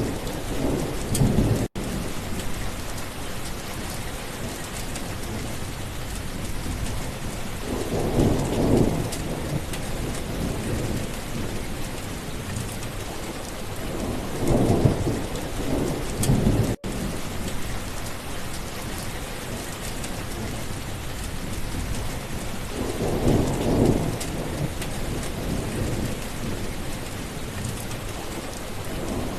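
Steady heavy rain with thunder rumbling low about four times, each roll swelling and fading over a second or so. The sound drops out for a split second twice.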